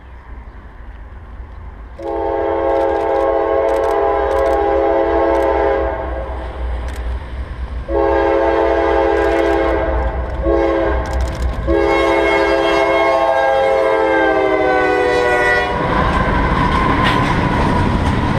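Diesel freight locomotive sounding its air horn as a chord of several notes in the grade-crossing pattern: long, long, short, long, the last blast dropping in pitch as it passes. Then the locomotive's engine and the train's wheels on the rails go by loudly.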